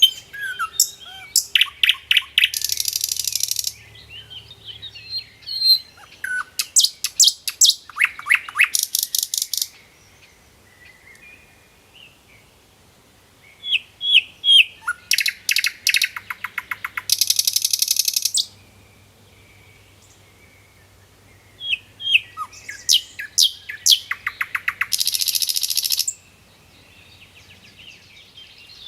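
A songbird singing three bouts of rapid repeated chirping notes, each ending in a fast buzzy trill, with pauses of a few seconds between bouts.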